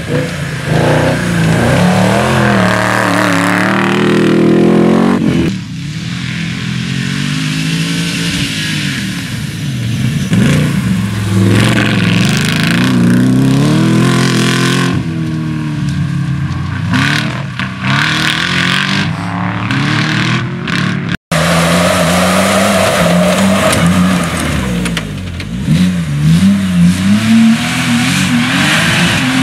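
Off-road rally cars' engines revving hard, the pitch repeatedly rising and falling as the cars accelerate across loose sand and dirt. The sound drops out for a moment about two-thirds of the way through, then the revving resumes.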